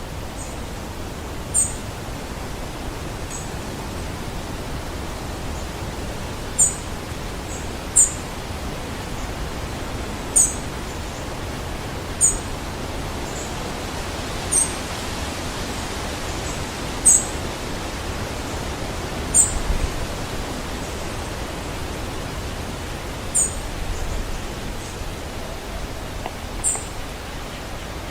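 A bird giving short, very high-pitched chirps that slide downward, one every couple of seconds, over a steady rushing noise.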